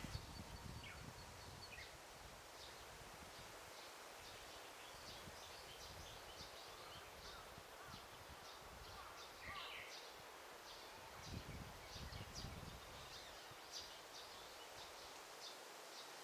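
Faint daytime forest ambience: small birds chirping in quick short notes throughout, with a brief lower phrase of song about ten seconds in, over soft rustling of leaves and occasional low gusts.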